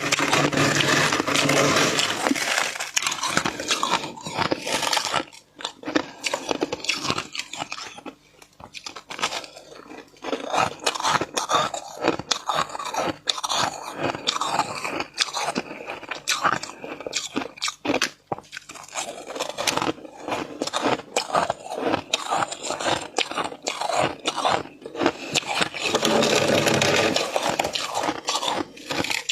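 Humidifier frost being bitten and chewed close to the microphone: a long run of crisp crunches and crackles. The crunching is thicker and more continuous in the first few seconds and again near the end.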